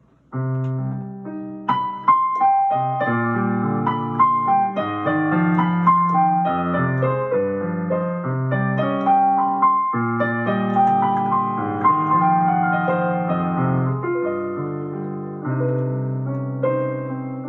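Solo piano introduction: chords in the bass under a melody line, starting about half a second in and easing off near the end.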